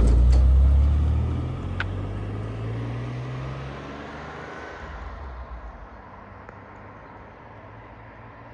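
A motor vehicle's engine pulling away, rising in pitch as it speeds up and fading over the first few seconds.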